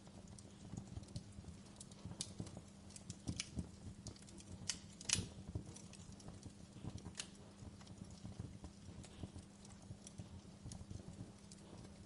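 Fireplace fire crackling with irregular sharp pops, the loudest about five seconds in, over a steady low hum.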